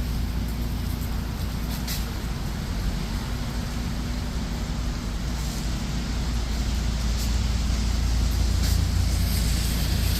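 Steady low rumble and hiss of a city street in heavy rain, with road traffic, getting a little louder in the second half.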